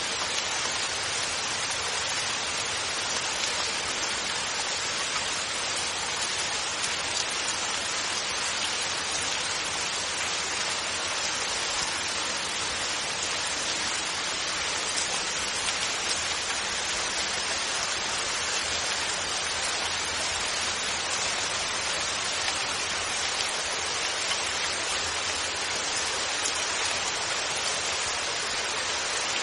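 Steady rainfall with no thunder: an even hiss of rain pattering on surfaces, unchanging throughout.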